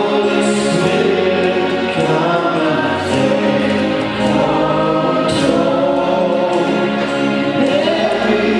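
Gospel worship music: a group of voices singing a slow song with long held notes.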